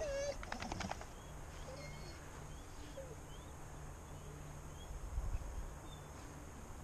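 Wild birds chirping and calling: scattered short chirps and a few lower calls, with a quick run of clicks about half a second in. A faint low hum runs through the middle, and a few soft thumps come about five seconds in.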